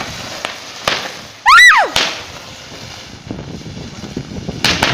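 Sharp pops and crackling from a burning pile of sparklers, with a brief high shriek that rises and falls about a second and a half in.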